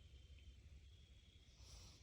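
Near silence: a faint low rumble with a thin, steady high tone, and a brief soft hiss near the end.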